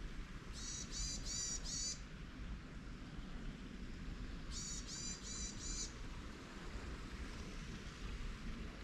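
A small songbird singing short phrases of four quick, high repeated notes, twice, about four seconds apart, over a steady low background noise.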